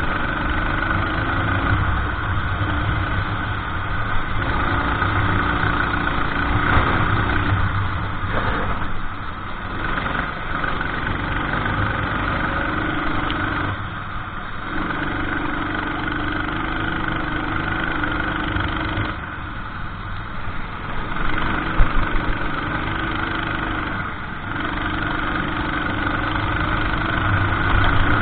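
Kart engine running hard on track. Its note drops several times as the kart slows for corners, then picks up again. A few sharp knocks come about three-quarters of the way through.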